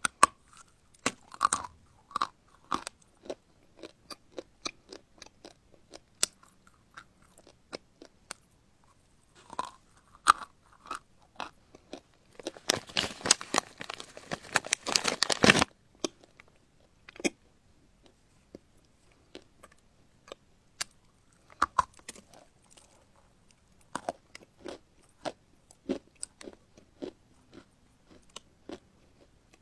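Close-miked ASMR eating: a person biting and chewing crisp, crunchy food, with sharp separate crunches. About halfway through comes a dense three-second run of crackling crunches, then slower, scattered chewing.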